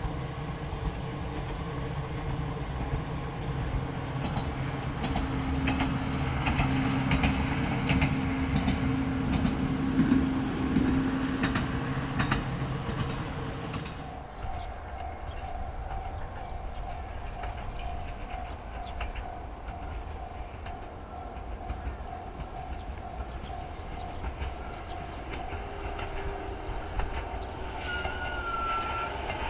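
Echizen Railway electric train running by on the rails, with a steady motor hum and wheels clicking over rail joints. About halfway through the sound changes abruptly to a quieter, steady hum, with a short higher tone near the end.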